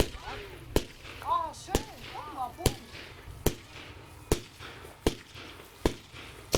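Fireworks going off: a steady series of about eight sharp bangs, a little under one a second, the pattern of a battery firing shot after shot.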